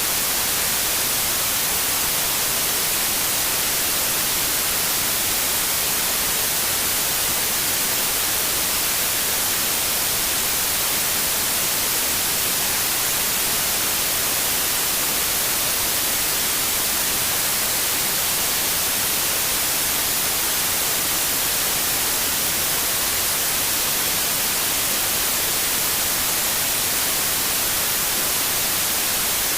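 Steady white noise: an even, unbroken hiss, strongest in the high end, with no change in level.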